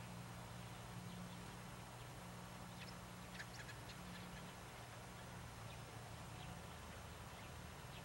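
Faint outdoor ambience: a steady low hum and hiss, with a few brief, faint high-pitched bird chirps about three seconds in and once more near the end.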